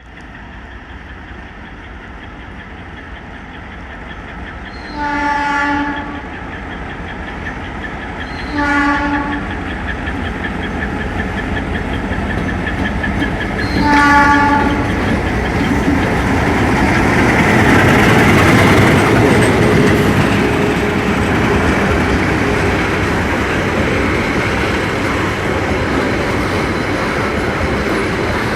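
Diesel locomotives (an ALCo RSD16 and a G22) approaching: the horn sounds three times, the first and last about a second long and the middle one shorter. Then engine rumble and wheel noise on the rails build up and stay loud as the train passes.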